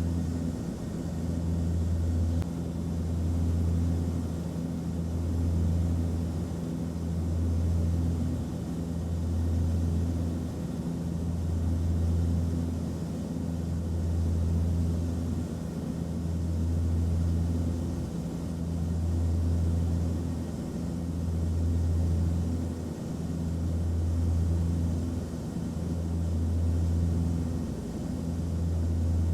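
Airliner cabin noise in flight: a steady low engine drone with a faint airflow hiss, its lowest hum swelling and fading about every two seconds.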